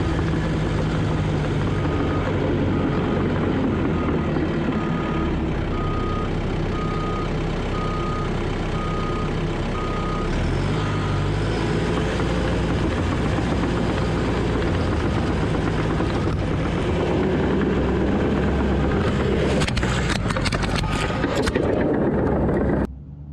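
Heavy earthmoving machine's diesel engine working steadily, with a reverse alarm beeping about once a second for a long stretch and again near the end, and some clanks near the end.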